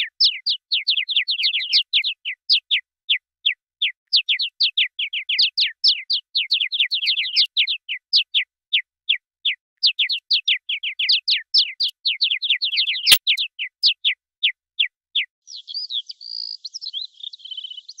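Bird chirping: a rapid run of short, downward-sliding chirps, about five a second, with a single sharp click about 13 seconds in. Near the end the chirps stop and give way to a softer, more varied twittering.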